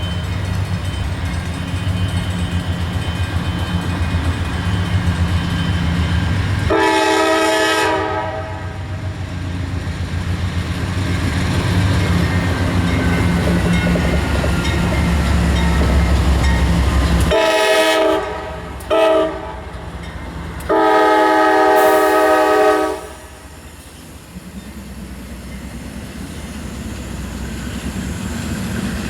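Norfolk Southern diesel locomotives passing with a heavy engine rumble while the multi-chime air horn blows four times: one long blast, then long, short, long, the pattern of a grade-crossing warning. The engine rumble falls away near the end of the horn sequence, leaving the steady rolling noise of the intermodal cars.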